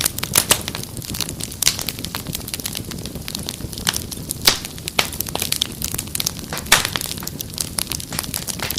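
Fireplace fire crackling, with irregular sharp pops over a steady low rush of flame. The loudest pops come about four and a half seconds in and near seven seconds.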